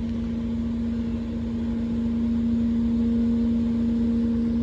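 Truck engine running steadily to power the loader crane's hydraulics, a constant hum with one strong steady tone; it grows slightly louder about two seconds in.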